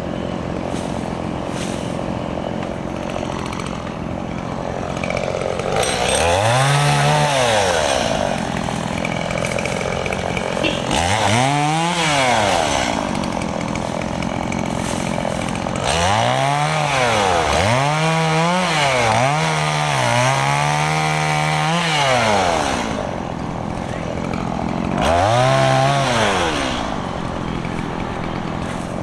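Stihl MS 170 two-stroke chainsaw idling between bursts of throttle as it cuts up small branches, revving up and back down several times. A quick run of revs ends in one held a little longer, a few seconds before the last burst.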